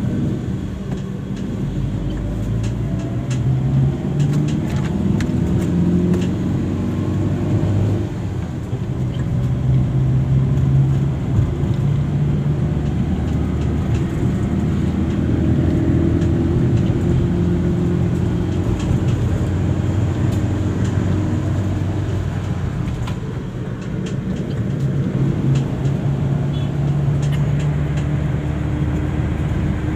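A road vehicle's engine running as it drives, its pitch rising and falling every few seconds with speed, over steady road noise.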